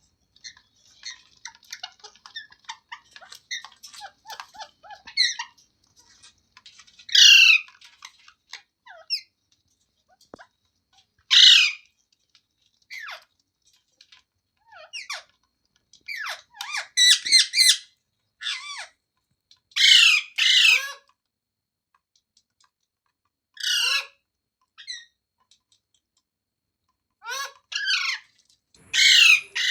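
Indian ringneck parrot calling: soft, rapid chattering chirps for the first few seconds, then loud, harsh squawks every few seconds, some coming in quick clusters of two or three.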